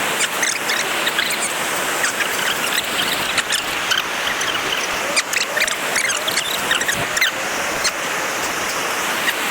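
Steady rush of a fast-flowing river, with many short high-pitched chirps and squeaks scattered over it.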